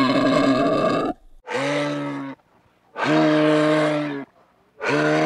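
An animal calling: one call ends about a second in, followed by three separate drawn-out calls, each held at a steady pitch for about a second, with short silent gaps between them.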